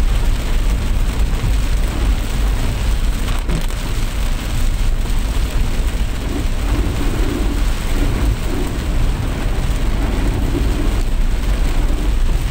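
Heavy rain pouring steadily, a dense even hiss over a constant deep rumble.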